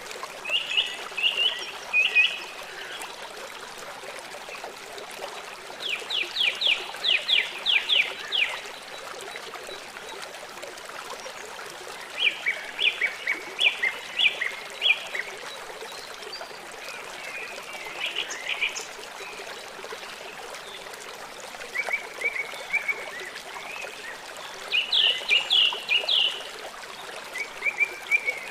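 A songbird singing short phrases of quick, repeated chirping notes, one phrase every few seconds, over the steady sound of running water from a small stream.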